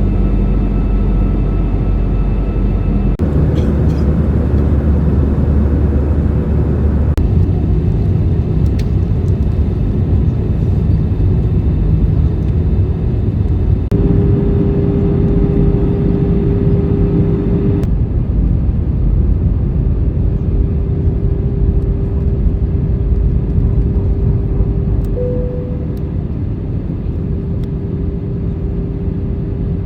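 Airbus A319 engine and airflow rumble heard from inside the passenger cabin: a loud, steady low roar with faint engine tones whose pitch changes abruptly a few times.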